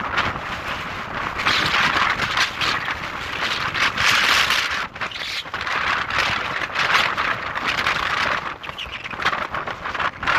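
Very strong gusting wind rushing and buffeting the microphone, surging and easing every couple of seconds.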